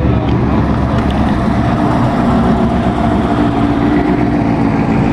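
A car engine idling steadily, a low, even rumble.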